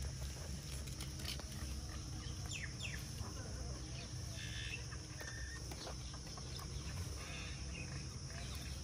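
A few short bird calls, some falling chirps and some clucking calls, sound over a steady low rumble of outdoor background noise, with faint scattered clicks.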